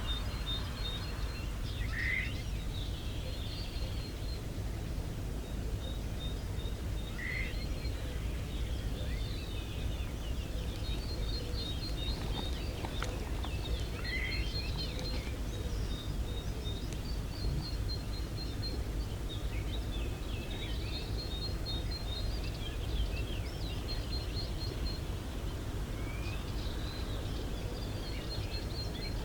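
Outdoor ambience of birds calling over a steady low rumble: a short rising call every few seconds and fast, high, repeated trills.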